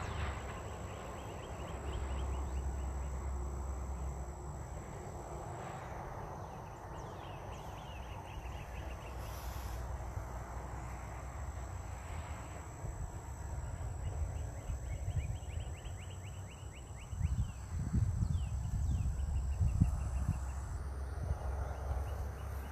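Open-air field ambience: a low wind rumble on the microphone that turns gusty near the end, with faint rapid chirping trills coming and going in the background and a thin steady high whine that stops shortly before the end.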